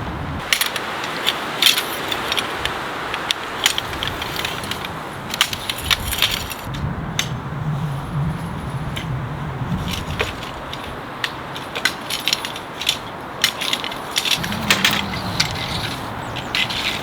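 Many irregular sharp clicks and clinks of small hard objects being handled, over a steady hiss.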